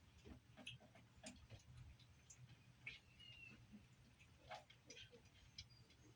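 Faint, irregular small clicks and ticks from a mother animal eating and her young moving about, with a couple of faint short high squeaks.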